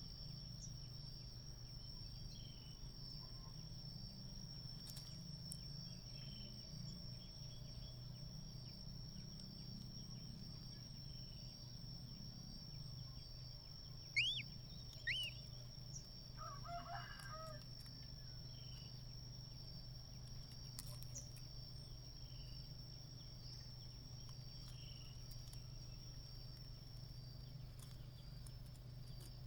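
Steady high-pitched insect drone over a low hum. A little past halfway, two sharp bird chirps about a second apart, then a distant rooster crowing for about a second.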